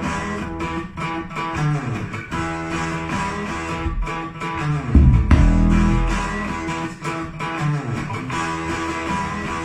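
A band playing an instrumental rock piece: electric guitar over bass with a steady drum-machine beat, a deep bass note coming in strongly about five seconds in.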